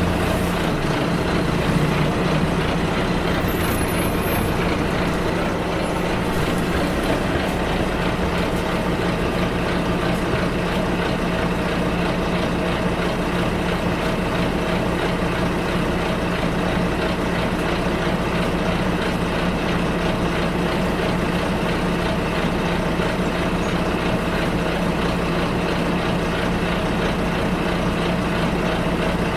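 Bus engine running steadily with rumbling road noise, heard from inside the passenger cabin during the ride.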